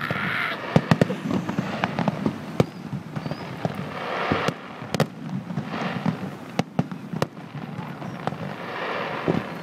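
Fireworks display: a string of sharp bangs at irregular intervals.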